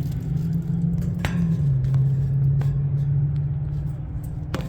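A steady low mechanical hum that drops slightly in pitch about a second and a half in, with a few sharp clicks over it.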